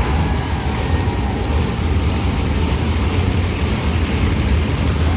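Monster truck engines running, a loud steady low rumble with a hiss of noise over it.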